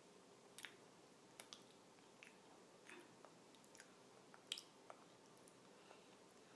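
Faint, irregular wet clicks and smacks of a drowsy toddler slowly chewing a cookie, the loudest click about four and a half seconds in.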